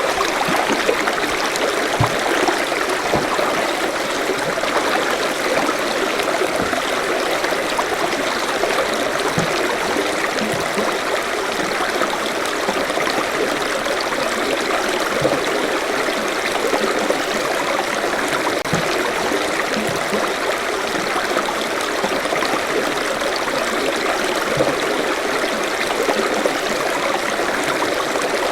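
Forest stream flowing steadily over rocks, a continuous rush of running water with small splashes and gurgles.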